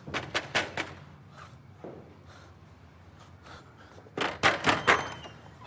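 Knocking on a door: about four quick knocks, then about four louder ones some four seconds in.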